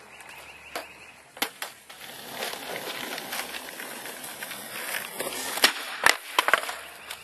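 Skateboard wheels rolling on hard ground, growing louder over a few seconds. Near the end come several sharp clacks of the board striking the ground, as in a trick attempt and landing.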